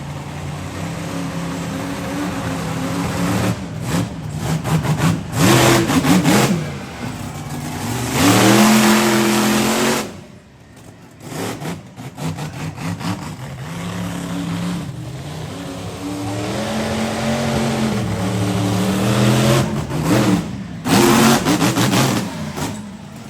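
Monster truck engine revving hard, its pitch rising and falling as the throttle is opened and closed again and again. It drops off briefly about ten seconds in, then builds again.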